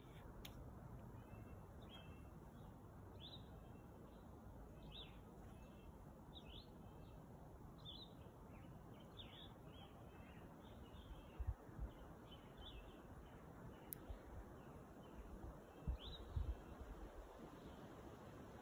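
Faint birdsong: small birds chirping again and again over a quiet steady outdoor hiss, with a few low thumps in the second half.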